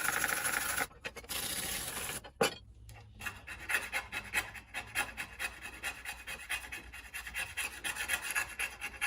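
Old gasket material and sealant being scraped and rubbed off the exhaust manifold mating surface of an outboard motor, hand work on metal. Two steady stretches of scraping come in the first two seconds, then quick short back-and-forth strokes follow for the rest.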